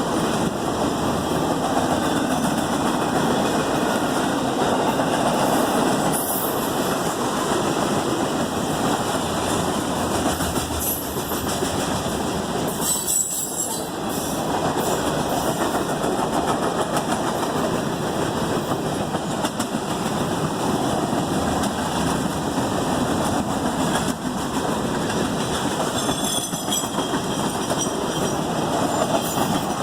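Freight cars of a long freight train rolling past, a steady loud rumble of steel wheels on rail, with a few brief high-pitched wheel squeals.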